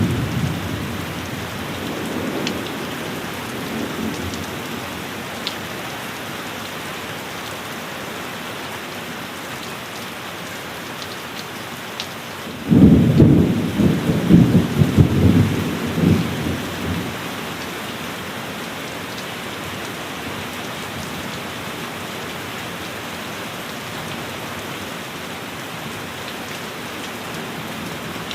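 Heavy rain falling steadily in a thunderstorm, with the tail of a thunder rumble fading over the first few seconds. About halfway through, a loud thunderclap breaks out suddenly and rolls in several peals for about four seconds before dying away.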